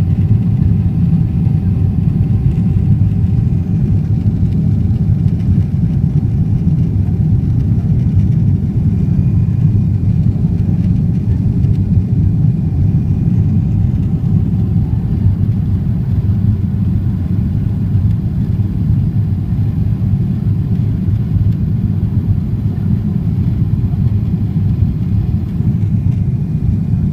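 Steady low rumble of cabin noise inside a Boeing 777-300ER airliner, unchanging throughout, with a faint steady tone above it in the first half.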